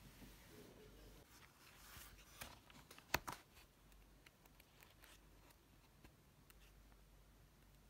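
Near silence in a small room, broken about three seconds in by a few light clicks and taps, the loudest one sharp click, like small objects being handled on a desk.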